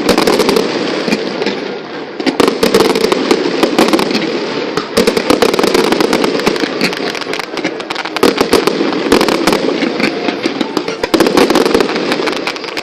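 Fireworks display: shells bursting into a dense crackling and popping that swells in waves every few seconds.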